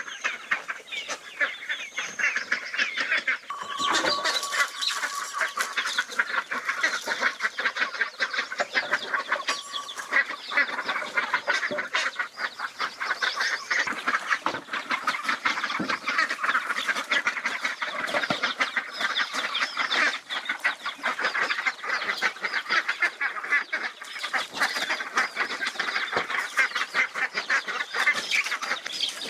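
A flock of farm poultry calling over one another: a dense, continuous chorus of short calls with no pauses.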